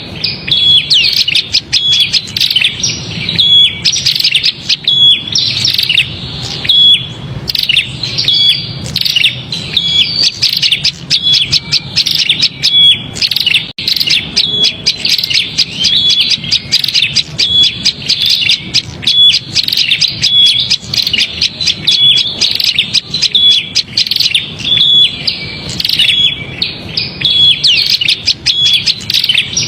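Prinia (prenjak) giving its agitated, noisy chattering call: fast, unbroken chirps with a short clear note repeating about once a second. This is the alarm-type 'ribut' call played as a lure to draw small birds in.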